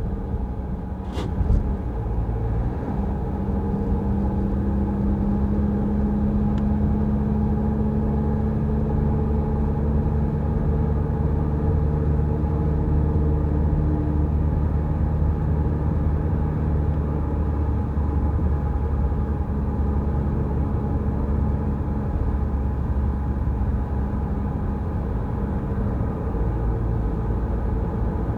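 Car driving along at a steady pace, its engine and tyres giving a continuous low rumble. Two short sharp knocks sound about a second in.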